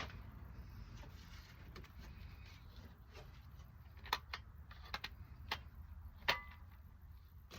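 A handful of sharp metallic clinks, about five, between four and six and a half seconds in, the loudest two ringing briefly, over a low steady hum: metal tools or parts knocking together during suspension work.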